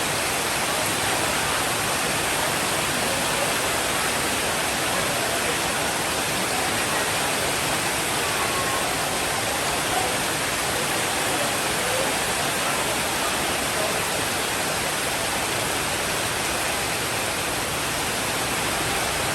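Steady rainfall, a dense, even hiss.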